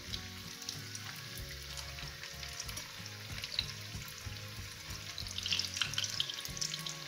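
Breaded chicken cutlets shallow-frying in hot oil in a pan: a steady crackling sizzle, with light clicks of metal tongs against the pan as the cutlets are turned. The sizzle grows louder about five seconds in.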